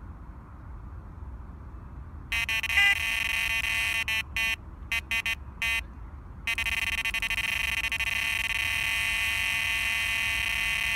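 Electronic carp bite alarm going off: a stuttering run of beeps a couple of seconds in, then an unbroken continuous tone from about six seconds on. This is the sign of a run, a carp pulling line off the reel.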